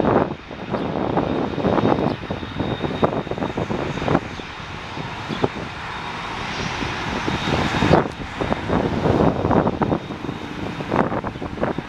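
Airliner engine noise: a loud, continuous rush.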